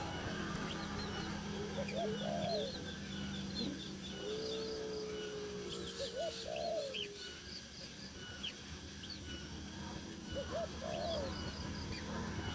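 Birds calling: about four low, arching calls, one of them a longer held note, over a steady scatter of short high chirps and a faint steady hum underneath.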